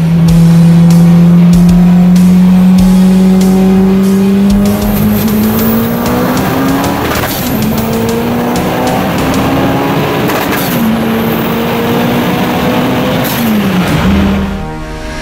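VW Golf Mk1's 2.0-litre 16-valve turbocharged four-cylinder at full throttle, heard from inside the cabin. The engine note climbs steadily and drops sharply with upshifts about seven and eleven seconds in, then falls away as the throttle is lifted near the end.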